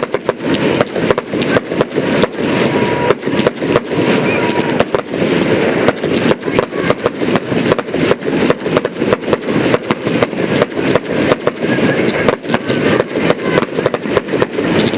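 Fireworks display going off in a dense, continuous barrage: rapid bangs and crackles, many per second, with no break.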